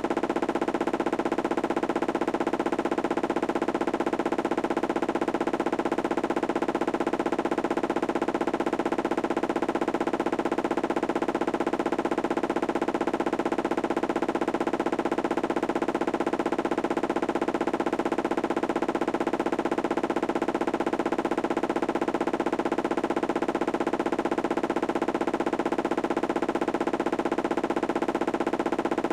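Candy washing machine in a high-speed spin: a steady, loud whine with a very fast even pulsing, holding at one pitch.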